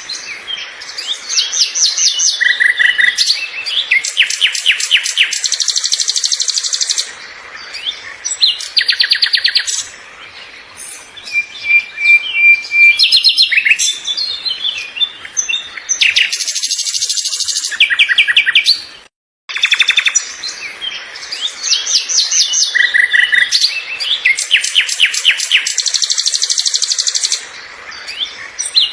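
Songbird singing in repeated phrases of fast, high trills and chirps. After a brief dropout about 19 seconds in, the same stretch of song plays again.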